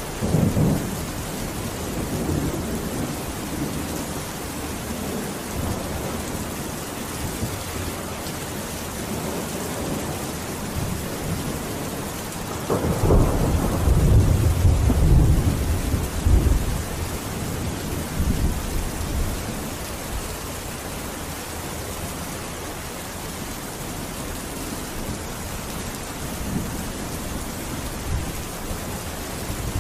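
Steady rain with thunder: a short rumble just after the start and a longer, louder roll about halfway through.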